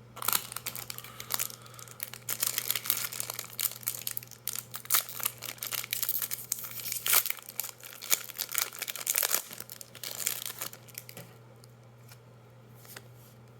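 A Magic: The Gathering set booster pack's foil wrapper being torn open and crinkled, a dense crackling that goes on for about eleven seconds and then dies down to a few faint clicks.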